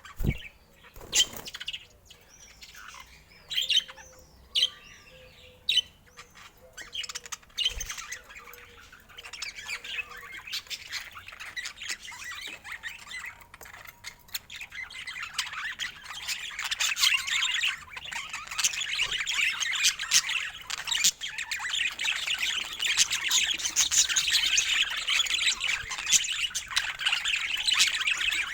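Budgerigars calling: a few loud, separate chirps in the first seconds, then a continuous chattering warble that builds and grows louder through the second half.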